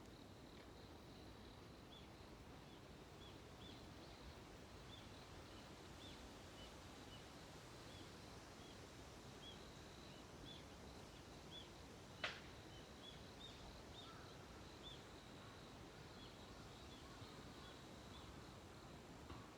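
Quiet daybreak outdoors: faint small high chirps repeating steadily about once a second over a low hiss, with a faint steady high tone. One sharp click about twelve seconds in.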